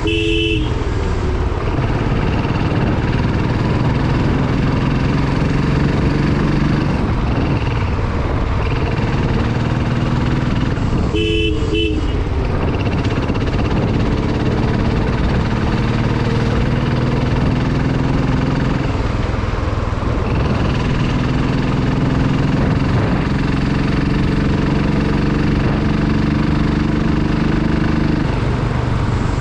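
Motorcycle engine running on the move, its pitch rising and falling as it speeds up and eases off. A horn beeps briefly right at the start and gives a short double toot about eleven seconds in.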